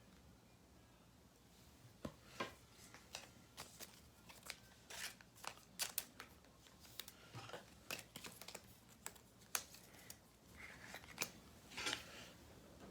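Quiet handling of trading cards and their plastic and packaging: a string of small clicks, taps and short rustles, starting about two seconds in.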